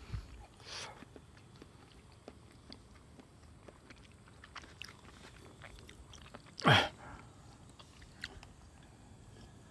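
A person chewing and biting food, with soft clicks and small crunches. One brief louder sound with a falling pitch comes about two-thirds of the way through.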